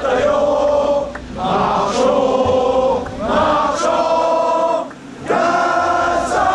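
A crowd of fans singing together in unison, holding long notes with brief breaks between phrases.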